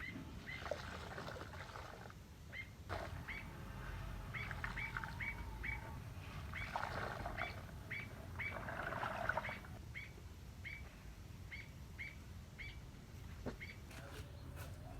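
A bird calling repeatedly with short chirps, about two to three a second, with a few stretches of rustling in between.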